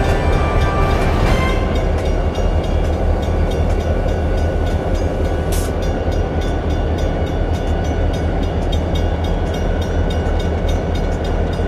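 A train running, a loud steady low rumble with faint regular ticks. The tail of background music fades out in the first second or so.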